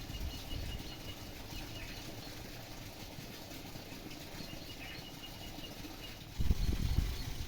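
Faint birds chirping in short repeated notes over a low, fluttering rumble, which grows much louder near the end.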